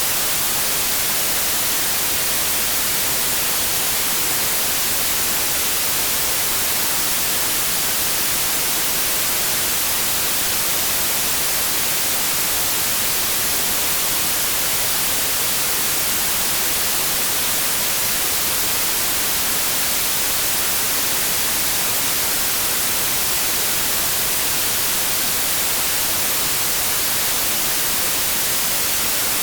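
White noise: a steady, even hiss of static that does not change.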